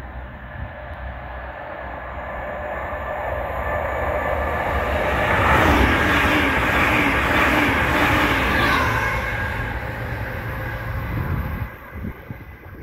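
A train passing on the East Coast Main Line: the rush of wheels on rail builds over several seconds, is loudest in the middle, then fades and cuts off sharply near the end as the train clears.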